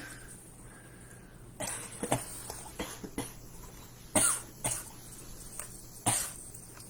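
A person coughing, several short coughs spread out, the strongest about four and six seconds in, with a few faint small clicks in between.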